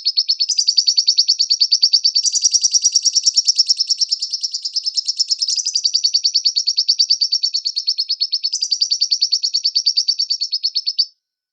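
Lovebird singing: a long unbroken run of rapid, high-pitched chirps, shifting slightly in pitch a few times, which stops abruptly near the end.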